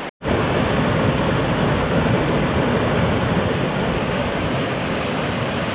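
Steady, loud rushing outdoor noise with a heavy, fluttering low rumble, starting just after a brief dropout near the start.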